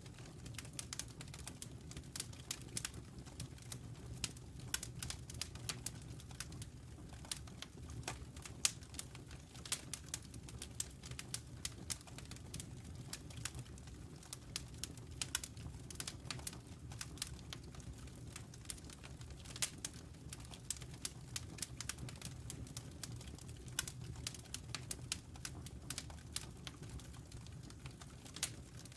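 Burning logs crackling in a fireplace: irregular sharp snaps and pops, several a second, over a steady low rumble of the flames.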